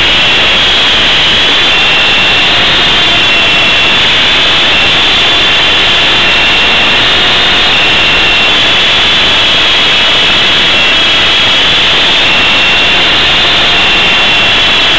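Loud, steady high whine of the Esky Big Lama coaxial RC helicopter's two brushless motors over the rush of its rotors, the pitch wavering slightly with the throttle.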